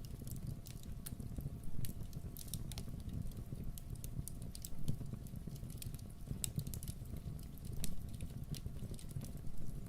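Wood fire crackling in a fireplace: irregular sharp pops and snaps, a few louder ones scattered through, over a steady low rumble.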